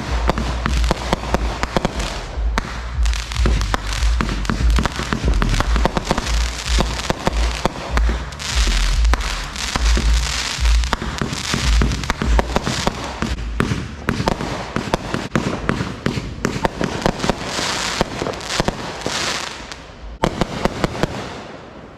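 Consumer fireworks going off in a dense, rapid barrage of pops, bangs and crackling with hissing, for about twenty seconds, then dying away near the end.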